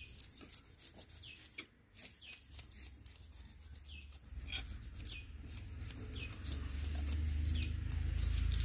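A bird calling over and over in short falling notes, among faint clicks, with a low rumble that swells from about halfway through.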